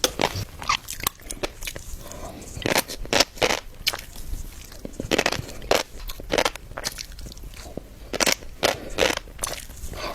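Close-miked eating sounds: a person biting and chewing crisp food, with an irregular run of sharp crunches and crackles and a few louder bites.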